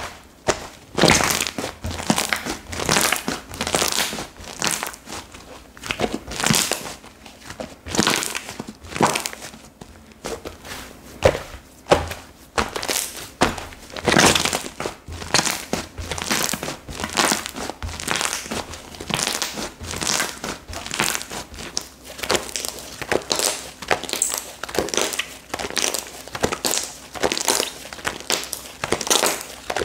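Slime being squeezed, stretched and pressed by hand, giving an irregular run of sticky crackles and pops, several a second.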